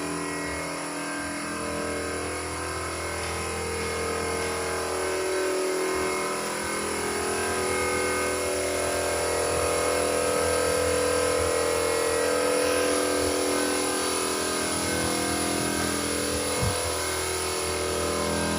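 Steady motor or engine hum with several steady tones that shift slightly in pitch, and one brief knock near the end.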